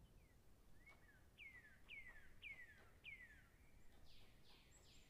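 Faint bird calls: four clear whistled notes, each sliding downward, about half a second apart, then a few harsher, higher downward-sweeping calls near the end.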